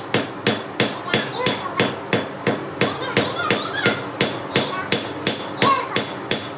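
Hand hammer striking hot forging steel on an anvil in a steady run of about three blows a second, each blow with a bright metallic ring.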